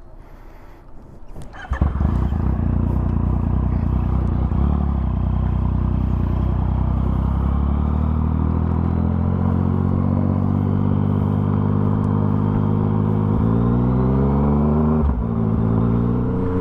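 A motorcycle engine starts about two seconds in and runs steadily. Later the revs rise as the bike pulls away, then drop suddenly with a gear change.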